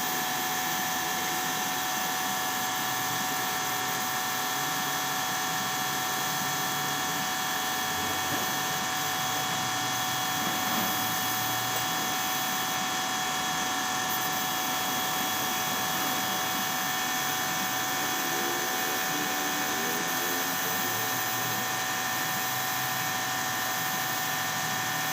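A power tool running steadily without a break, a constant whine over a hiss.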